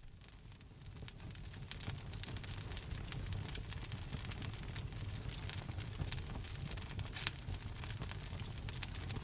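Wood fire crackling: a steady low rumble of burning wood with many quick pops and snaps. It fades in over the first couple of seconds, and one louder pop comes about seven seconds in.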